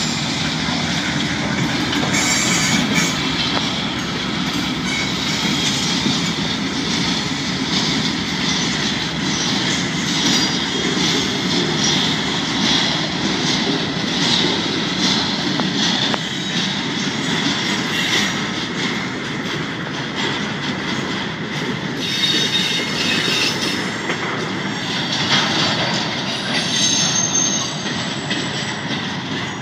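CSX freight train passing close by: the locomotives and then a string of freight cars rolling over the rails, with a steady clatter of wheels over the track and wheels squealing.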